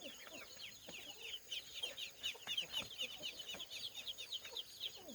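A group of ducklings peeping continuously, many short high peeps falling in pitch and overlapping one another.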